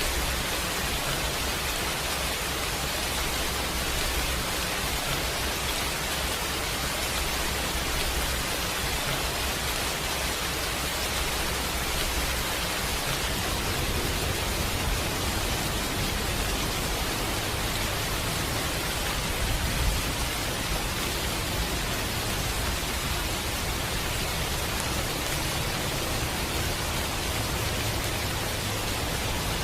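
Steady rain, an even, dense hiss with no letup, and a few faint ticks, one a little louder about twenty seconds in.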